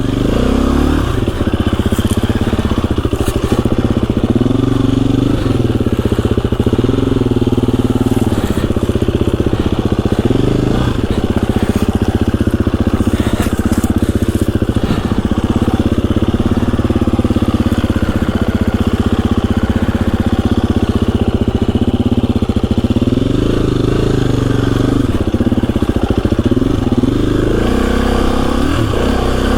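KTM 350 EXC-F single-cylinder four-stroke dirt bike engine running, its revs rising and falling again and again, steadier through the middle stretch.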